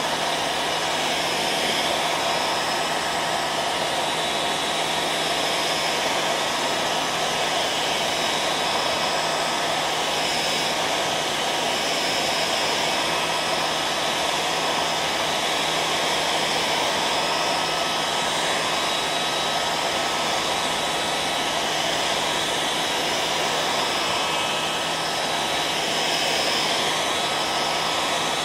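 Electric hair dryer running steadily: a constant rush of blown air with a steady motor hum and whine underneath.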